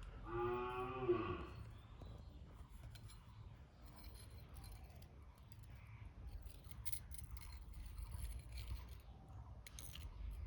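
An animal's call, one drawn-out note lasting about a second near the start, followed by faint scattered clicks and light scraping.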